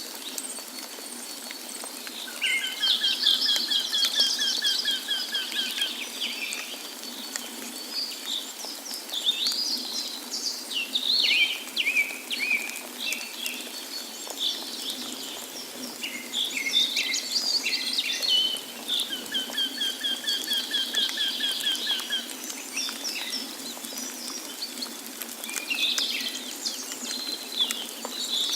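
Several songbirds singing: two drawn-out rattling trills, one a few seconds in and one past the middle, with scattered chirps and short phrases between, over a steady hiss of falling water.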